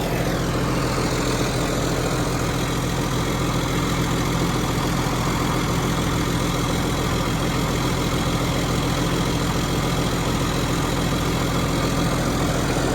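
Large John Deere diesel engine idling steadily at an even pitch.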